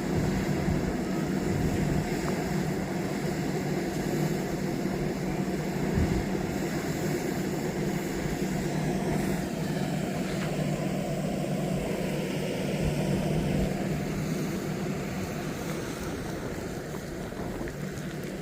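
An engine running steadily, a low hum with a constant pitch, easing slightly in level near the end.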